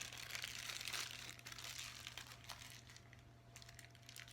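Faint crinkling and gritty scraping from the edible slime mixture being stirred by hand, loudest for the first two seconds and then tailing off.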